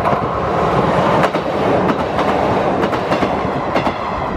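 Izuhakone Railway electric commuter train passing a level crossing at speed, loud rumble with its wheels clacking over the rail joints several times.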